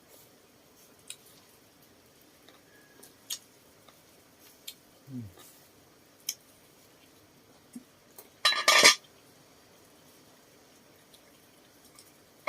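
Chopsticks and utensils clinking against bowls and dishes at a meal: scattered light taps, with one louder clatter about eight and a half seconds in.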